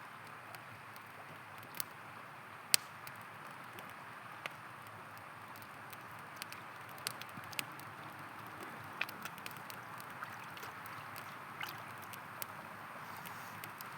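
River water flowing steadily, with a wood campfire crackling over it in scattered sharp pops and snaps, the loudest pop coming a little under three seconds in.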